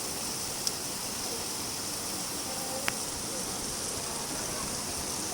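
Steady rain falling, an even hiss, with a single sharp click about three seconds in.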